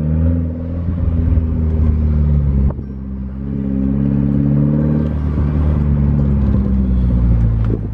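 Car engine pulling under acceleration, its pitch climbing, dropping at a gear change about three seconds in, then climbing again and levelling off.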